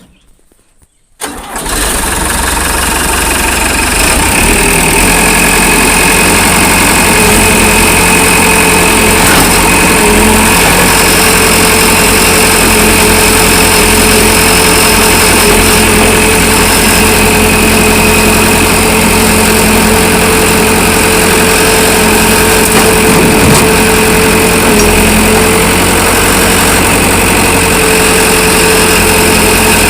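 Diesel engine of a Tata JD 315 backhoe loader starting about a second in, then running steadily and loudly.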